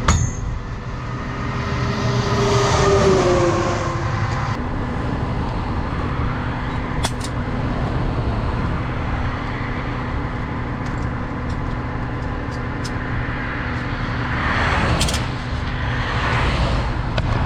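A truck engine idling steadily beside a highway, with traffic passing twice: once about two to four seconds in and again near the end.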